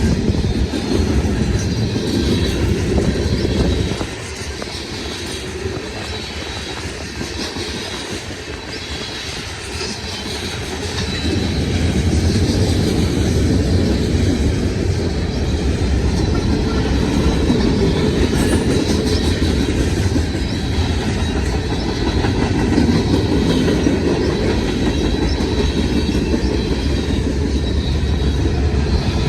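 Freight cars of a long mixed freight train rolling past at close range: a steady rumble with wheels clacking over the rail joints and a thin high tone above it. The passing eases off for several seconds about four seconds in, then grows loud again.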